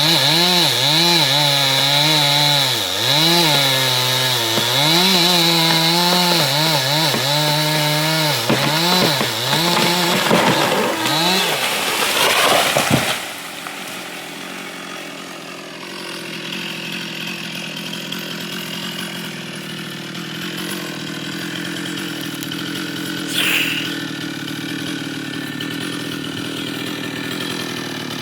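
Chainsaw cutting wood, its engine pitch repeatedly dipping under load and recovering. About halfway through the cutting stops suddenly, leaving a quieter, steady engine sound.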